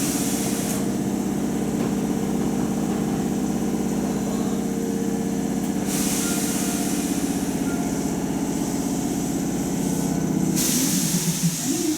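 Hankyu 8000- and 7000-series electric train standing in the station, its underfloor equipment giving a steady hum with a fast, even pulsing. Loud hisses of released air come twice, about six seconds in and again near the end.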